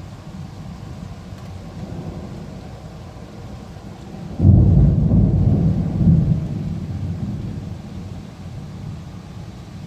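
Thunderstorm with steady rain: about four and a half seconds in, a loud thunderclap breaks into a deep rumble with a second swell, then rolls away over the next few seconds.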